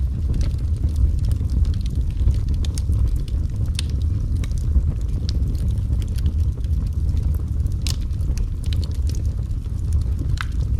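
Wood fire burning in a fireplace: a low, steady rumble of the flames with scattered sharp crackles and pops of the burning logs.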